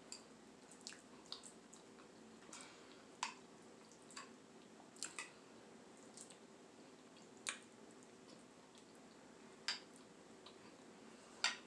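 Close-up eating sounds: wet mouth smacks and clicks of someone chewing grits, scattered irregularly with a few louder smacks, over a faint steady hum.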